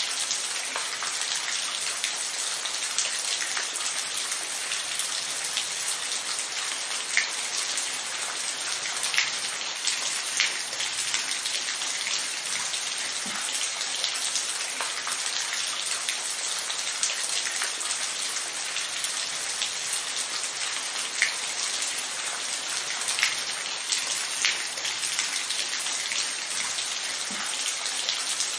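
Steady rain falling, a dense even hiss with scattered louder individual drops striking a surface.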